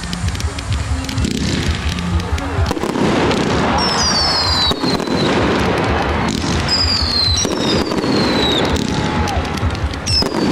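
Fireworks display: repeated bangs and crackling, with high whistles that fall in pitch coming about every three seconds from about four seconds in.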